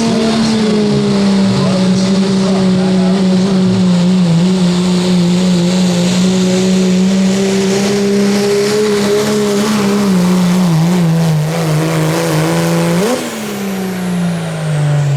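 Turbocharged diesel pulling truck's engine held at high revs under full load as it pulls the sled, its pitch sagging slowly as the load builds. About thirteen seconds in the throttle is cut and the revs fall away in a long downward glide, marking the end of the pull.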